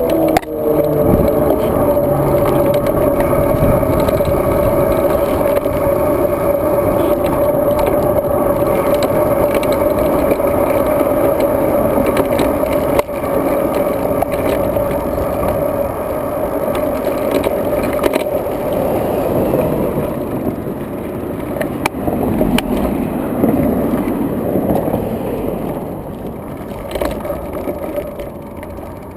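Riding noise of a road bike, heard through a GoPro mounted on the bike: a steady rumble and rattle with a constant hum and a few sharp knocks. It grows quieter over the last few seconds.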